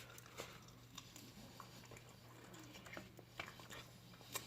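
Faint chewing of chicken wings: scattered soft wet mouth clicks and smacks, a sharper one near the end, over a steady low hum.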